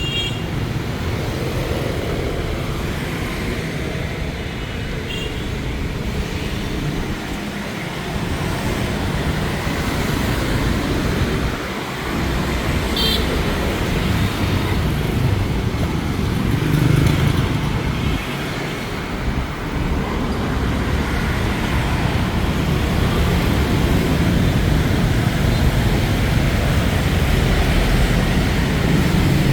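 Dense city street traffic, mostly motorbikes, running past in a steady continuous rumble, with a few short high tones about 5 and 13 seconds in.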